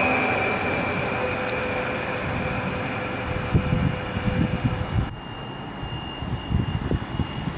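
Passenger train pulling away along the platform, its running noise fading steadily as it recedes. From about halfway, irregular low rumbles take over.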